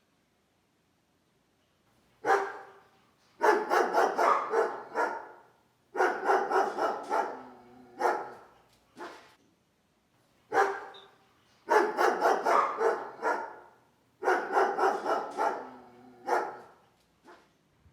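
Barking calls from an animal, starting about two seconds in: single barks and quick runs of several barks, with the same sequence heard twice.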